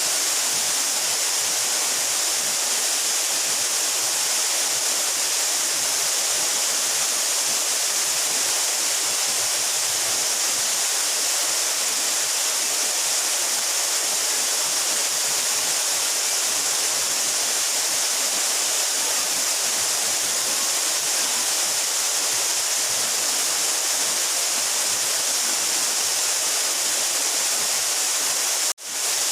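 A 12-metre mountain waterfall pouring steadily: a constant, even rush of falling water, bright and hissy, with little low rumble. The sound cuts out for a split second near the end.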